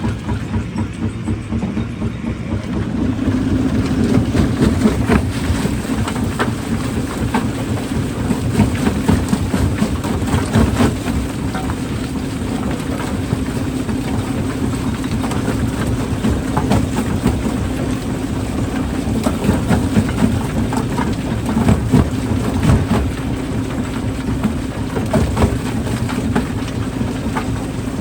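Rock crusher running with a steady low drone, with irregular knocks and clatter of rock being broken in it. It gets louder about three seconds in.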